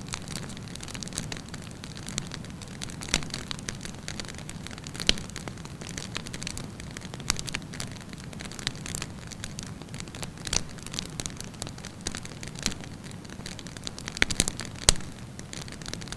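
Wood campfire burning, with irregular sharp crackles and pops over a steady low hiss of the flames; a few louder pops come about five seconds in and near the end.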